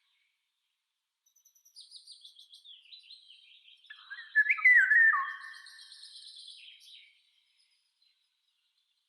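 Songbirds calling: a quick series of high twittering chirps starts about a second and a half in, and a louder, lower phrase of sliding whistled notes comes in around the middle. Both fade out about two seconds before the end.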